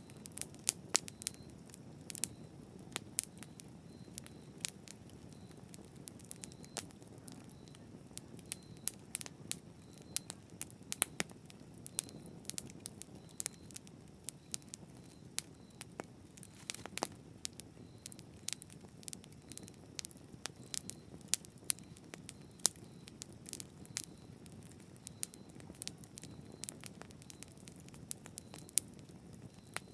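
Campfire burning steadily: a low rumble of flame with frequent sharp, irregular crackles and pops of burning wood.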